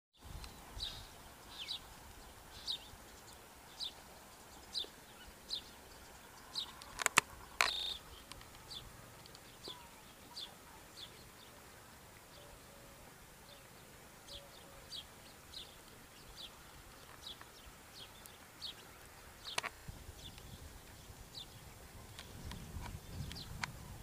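A small bird chirping over and over, a short high note about once a second, with a few sharp clicks, the loudest about a third of the way in. A low rumble builds near the end.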